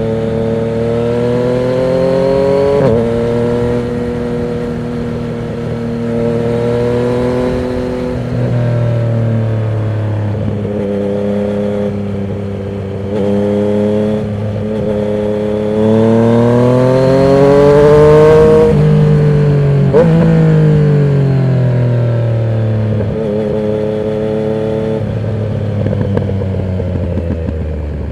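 Yamaha MT-09 inline-three engine through a Termignoni exhaust with the dB killer removed, pulling and easing off in turn as the bike is ridden. The pitch climbs under throttle and drops sharply at gear changes, with the strongest pull in the second half before it settles lower near the end.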